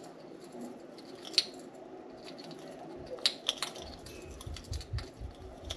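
Budgies chewing a soft-wood shredding toy: sharp, irregular snips and crunches of beaks biting and tearing the wood, several close together about three seconds in, with soft low thumps later on.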